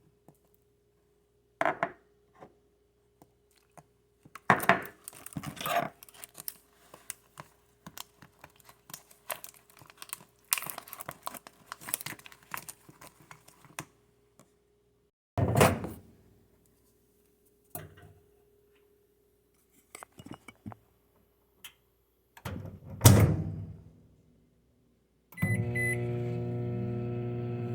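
Scattered clinks and scrapes of mixing in a cup, then two loud thuds. A couple of seconds before the end a microwave oven starts running with a steady hum.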